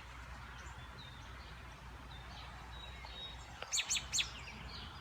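Songbirds calling: faint scattered chirps from distant birds, then three loud, sharp, quickly falling chirps in quick succession about three and a half seconds in, over a low steady background rumble.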